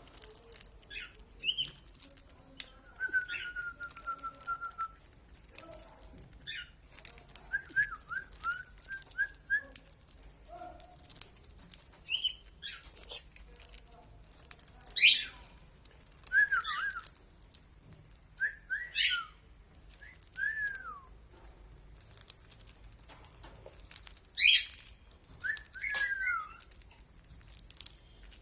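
Pet cage birds calling: scattered sharp chirps and short whistles, some sliding downward. There is one longer held whistle a few seconds in and a quick run of notes near the middle. The loudest calls come about halfway through and again near the end.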